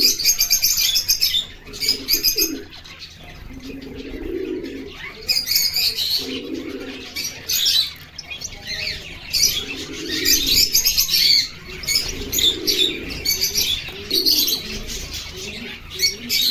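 Finches chirping in quick clusters of high calls, one burst after another, with a low cooing sound recurring beneath them every few seconds.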